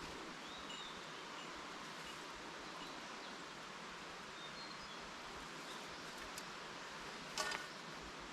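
Steady outdoor background hiss with a few faint bird chirps. A small bell jingles briefly about seven seconds in.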